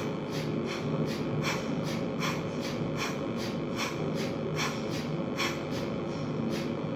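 Kapalbhati breathing: quick, forceful exhalations through the nose in an even rhythm of roughly two a second, each inhalation drawn in passively, over a steady low background hum.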